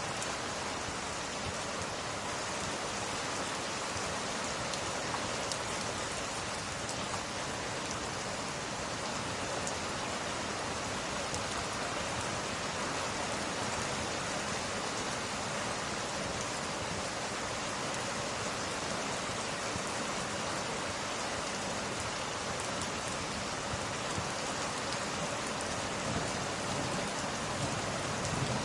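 Steady rain, an even hiss, with a few faint crackles from a wood fire.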